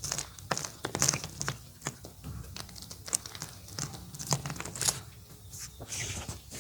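Orange gym chalk being crumbled: an irregular run of dry crackles and crunches with a few sharper snaps.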